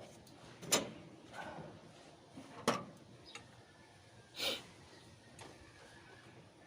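Sharp knocks from hand tools working on an engine: two crisp knocks about two seconds apart, then a softer, slightly longer rasp.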